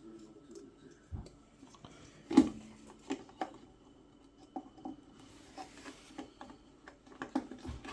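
Scattered small clicks and knocks of boiler parts and connectors being handled and plugged in, the sharpest about two and a half seconds in.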